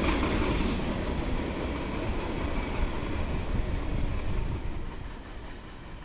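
Freight cars of a long train rolling past, steel wheels running on the rails with a steady low rumble. It gets quieter near the end as the last boxcars go by and the train moves away.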